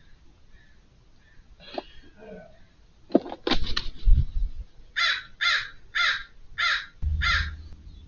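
American crow cawing: a few scattered calls, then a run of five harsh caws, a little under two a second.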